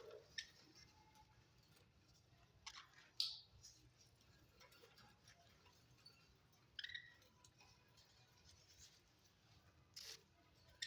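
Near silence broken by about five short, faint chirps and clicks from pet budgies, spaced a few seconds apart.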